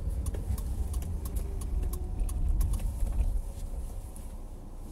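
Low steady rumble of a car's idling engine heard inside the cabin, with a few faint clicks.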